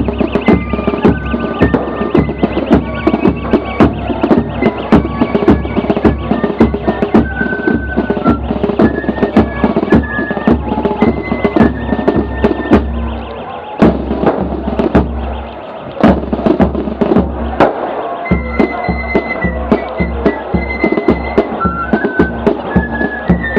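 Fife and drum corps playing a marching tune, with snare and bass drums close and loud under the fifes' melody. A little past halfway, the drumming drops back for a couple of seconds, then resumes.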